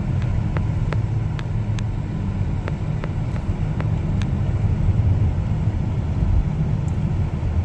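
Steady car-cabin road and engine rumble while driving. A run of light, evenly spaced ticks, about two a second, sounds over the first three seconds or so.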